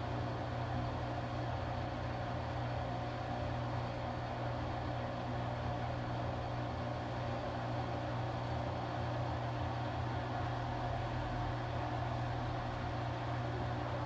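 Washing machine running, with a steady motor hum and a constant whine above it.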